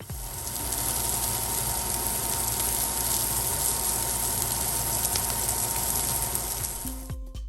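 Steady, dense hissing noise with a faint steady tone running through it. It starts abruptly and stops about seven seconds in.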